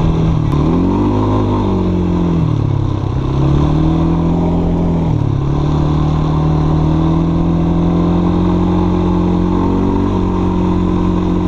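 ATV engine running hard under throttle with a meaty growl. Its pitch drops and climbs back twice in the first five seconds, then holds steady.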